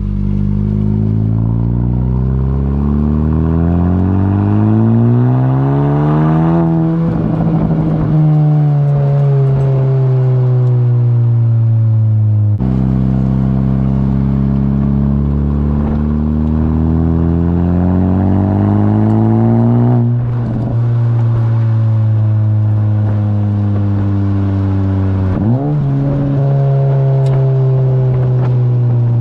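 2017 Honda Civic Si's turbocharged four-cylinder through a straight-through race catback exhaust and front pipe, heard from inside the cabin while accelerating. The engine note climbs steadily and drops sharply at gear changes about 7, 20 and 25 seconds in.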